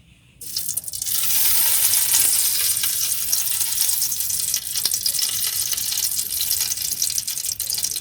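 Ghee hitting a hot heavy-bottomed pan: it starts to sizzle suddenly about half a second in and keeps sizzling steadily.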